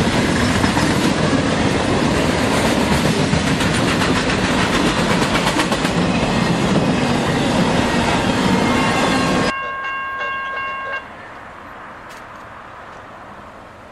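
Freight train cars rolling past close by: a loud steady rumble with rapid clacking of steel wheels over the rail. About nine seconds in, this cuts off abruptly and a multi-note locomotive horn chord sounds for about two seconds, then only a quiet low background remains.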